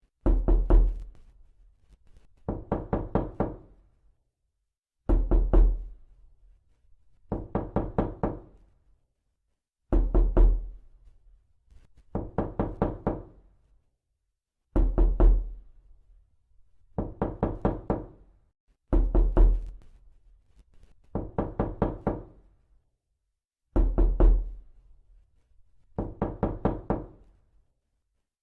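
Knocking, as on a door: about twelve quick runs of several knocks each, one every couple of seconds, with a deep thud at the start of many runs, the same pattern repeating throughout.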